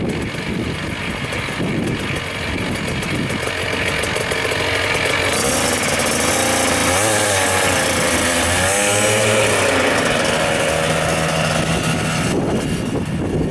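Small petrol engine of a homemade light aircraft running, its pitch wavering up and down in the middle as it is revved. A loud hiss of rushing air sets in about five seconds in and stops shortly before the end.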